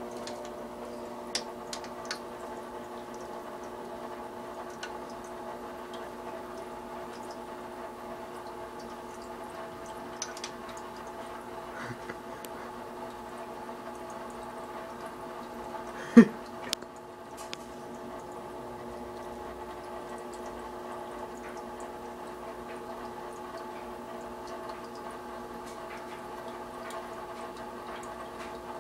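Fish tank filter or pump running: a steady hum with trickling water, a few light clicks, and one sharp knock about 16 seconds in.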